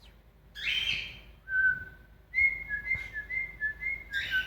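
Cockatiel whistling its song: a harsh chirp, one clear whistled note, then a quick run of short whistled notes stepping between two pitches, ending in another chirp.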